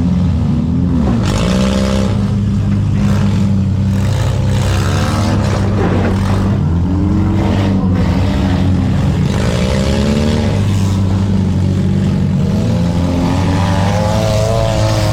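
Several four-cylinder demolition derby cars' engines running together, revving up and down over a constant low drone.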